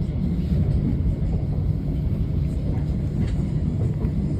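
Inside a Thameslink Class 700 Desiro City electric train on the move: a steady low rumble of wheels on track and running gear, with a few faint light ticks.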